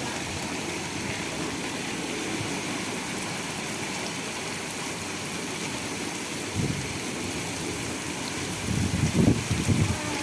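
Heavy rain falling steadily in a dense, even hiss, with a few louder low rumbles near the end.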